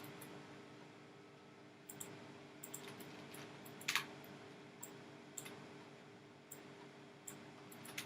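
Scattered clicks of a computer mouse and keyboard, about a dozen, with one louder click about four seconds in, over a steady low hum.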